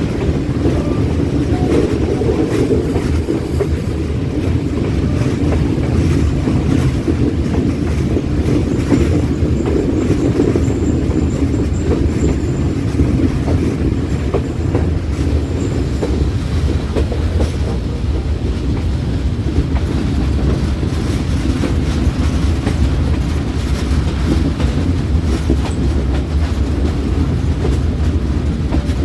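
Passenger train running steadily on the line, heard from aboard: a constant low rumble of wheels on rail with faint clicks over the rail joints. A faint high wheel squeal comes in for a few seconds about a third of the way in.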